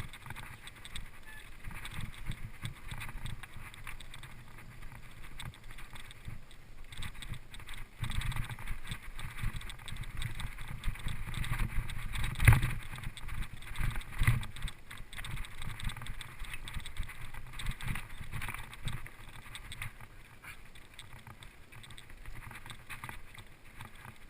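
Bicycle ridden over a rough dirt trail: tyres crunching, with the frame and suspension rattling and knocking unevenly and a hard knock about twelve seconds in. The suspension makes a loud racket ("um barulhão").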